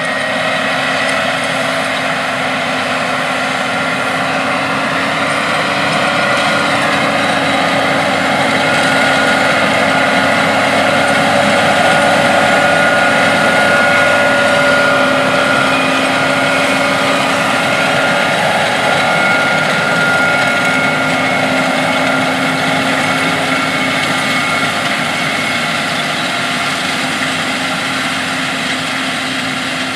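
Big diesel farm machinery running steadily in the field, with a steady whine over the engine noise; it grows louder toward the middle, as if the machine draws closer, then eases off slightly.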